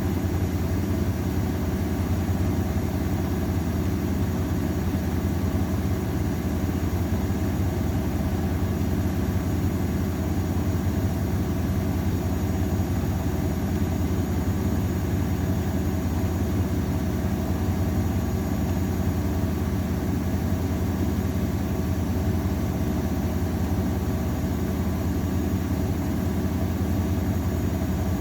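AEG Öko-Lavamat 693 front-loading washing machine running with a steady, unbroken motor hum.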